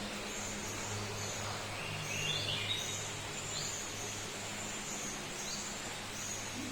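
Birds chirping with short, high calls, a cluster of them about two to three seconds in, over a steady background hiss and a low hum.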